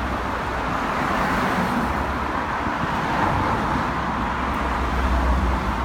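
Steady road traffic noise: cars passing on a busy road, a continuous rush of tyres and engines.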